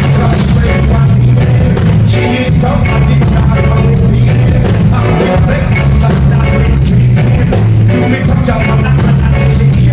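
Live band music played loud, with heavy bass, drums and a steady beat, in a ska and rock style.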